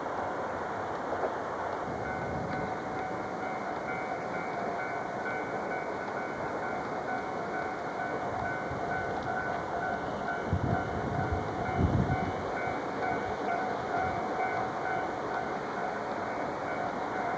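A train running, a steady rumbling noise with a steady whine over it. Two low thumps come about ten and twelve seconds in.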